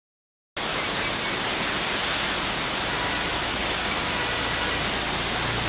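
Heavy rain pouring down in a steady, even roar, starting about half a second in.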